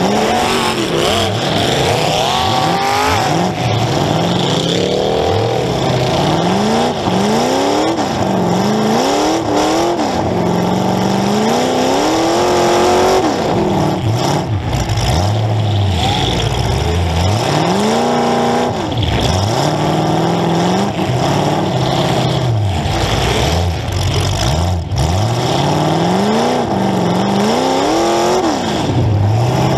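Demolition derby car's engine heard from on board, revving hard again and again: the pitch climbs and drops every two seconds or so as the driver accelerates and backs off. A few sharp knocks cut through it.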